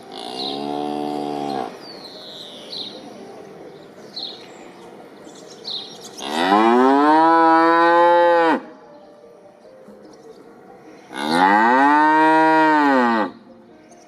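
Cow mooing three times: a shorter, quieter moo at the start, then two long, loud moos of about two seconds each. A few faint high chirps can be heard between the calls.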